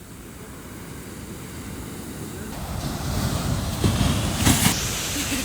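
Wind buffeting the microphone over the wash of surf, a steady noise with no distinct events that grows louder through the second half.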